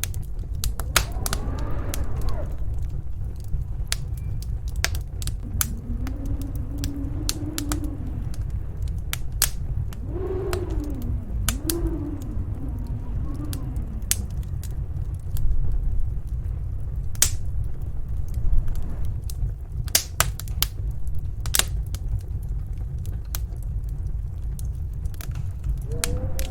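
Wood fire crackling with frequent sharp pops and snaps. Underneath runs the steady low rumble of a snowstorm's wind, with a few howling gusts that rise and fall.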